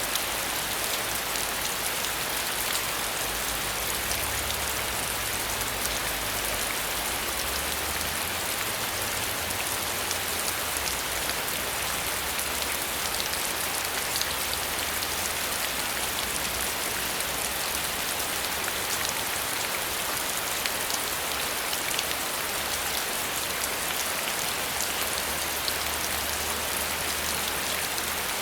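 Steady rain falling, a dense even hiss of drops with fine individual patters on a surface, and a faint low rumble coming and going underneath.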